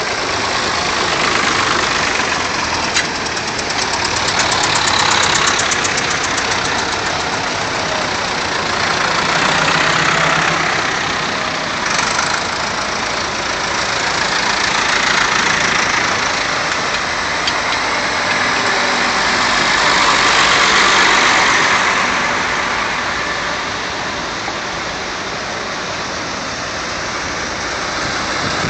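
Vintage tractor engines running, the sound swelling and fading every few seconds as one tractor after another goes by.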